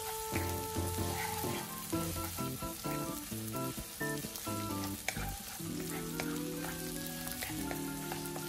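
Sliced onion and garlic sizzling steadily in hot oil in a wok as a wooden spatula stirs them, sautéing until caramelized. Background music with held notes plays underneath.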